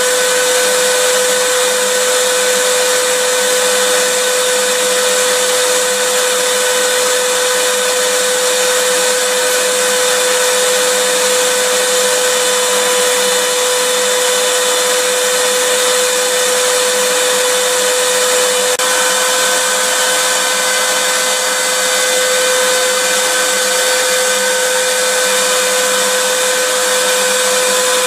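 Vacuum cleaner running continuously: a steady, even rushing hiss with a constant motor whine, its pitch shifting slightly about two-thirds of the way through.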